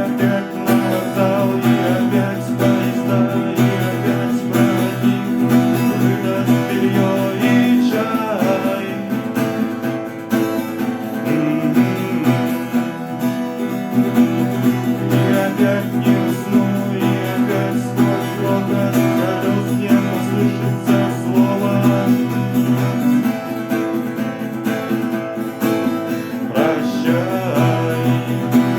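Acoustic guitar being strummed, playing a song at a steady, even loudness.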